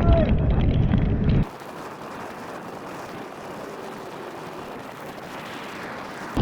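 Storm wind buffeting the microphone with a heavy low rumble, cut off abruptly about a second and a half in, leaving a quieter steady hiss.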